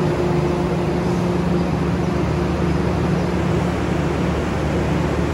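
KA Dhoho local passenger train: a steady rumble with a low, even hum and no sudden knocks.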